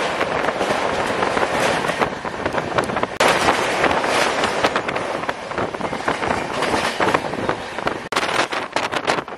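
Passenger train running at speed across a steel truss bridge, heard from an open door with wind on the microphone: dense rattling and rapid clacking of the wheels and girders, thinning out in the last second as the train runs off the bridge.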